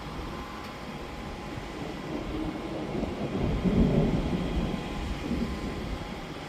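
Thunder rolling: a low rumble that swells to its loudest about four seconds in, then dies away.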